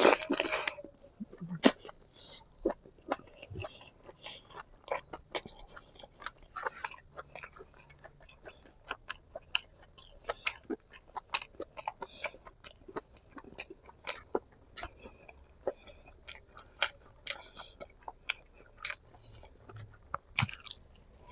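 A person chewing and biting spicy braised pig feet close to the microphone: many short, irregular wet clicks from the mouth, with a louder burst at the start and another near the end.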